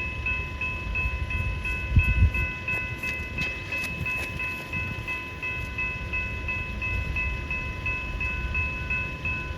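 Level crossing warning bells ringing in a rapid, even pulse over the low rumble of a passing train. A heavy thump comes about two seconds in, and a few sharp clicks follow over the next couple of seconds.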